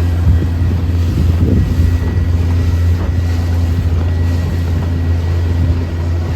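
A motorboat's outboard engine running steadily underway, a constant low drone, with wind buffeting the microphone and water rushing past the hull.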